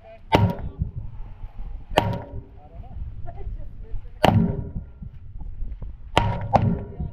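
Gunshots on a shooting range: five shots, single ones about two seconds apart, then two in quick succession near the end.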